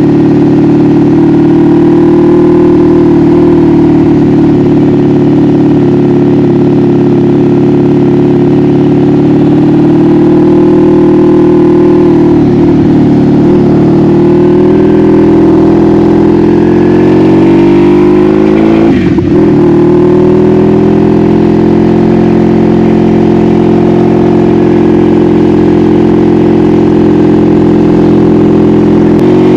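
1986 Honda Magna V45's 750 cc V4 engine running loud and steady under way, heard from on board the motorcycle. Its note dips briefly about twelve seconds in and drops sharply and recovers about nineteen seconds in.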